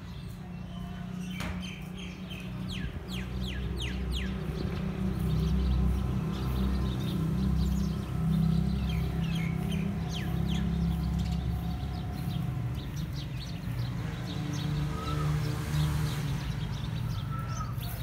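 Small birds chirping in many short, quick notes, busiest in the first half, over a steady low rumble on the microphone; a chicken clucks a few times near the end.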